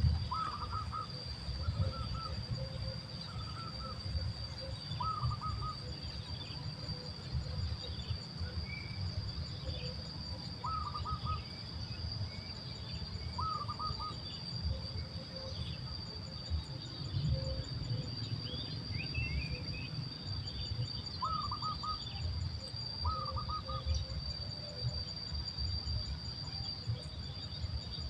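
Short bird chirps, often doubled, repeating every one to three seconds over a steady high-pitched insect drone, with a low rumbling noise underneath.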